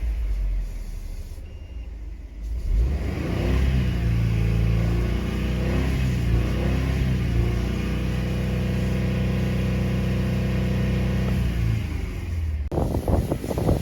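Subaru WRX S4's FA20 turbocharged 2.0-litre flat-four engine running on a start-up check. It runs softly at first. About three seconds in the engine speed rises and holds steady, then drops back near the end. Wind buffets the microphone in the last second.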